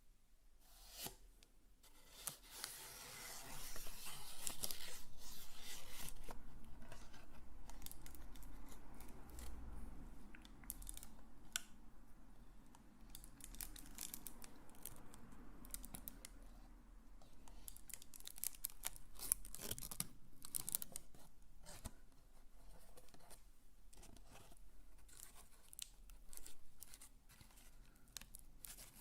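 Close-miked ASMR crinkling and rustling of crinkly material, with sharp crackles and clicks. It is densest and loudest from a few seconds in to about a third of the way through, then thins to scattered crackles.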